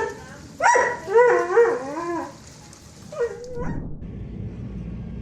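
A dog giving a string of short barks and whines that rise and fall in pitch, with two more brief calls a little after three seconds. About three and a half seconds in it cuts to a steady low rumbling noise.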